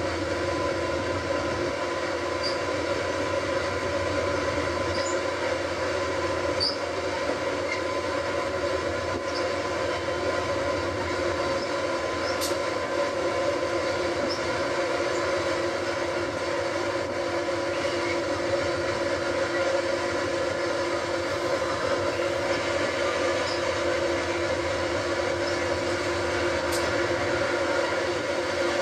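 A train moving slowly along the track: a steady, even drone holding several constant tones, with a few faint, short high ticks from the rails and running gear.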